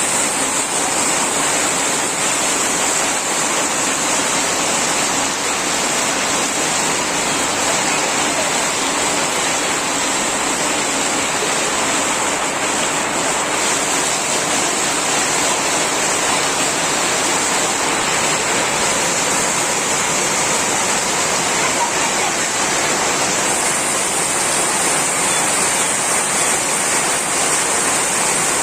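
Heavy rain pouring down steadily in a continuous, even downpour.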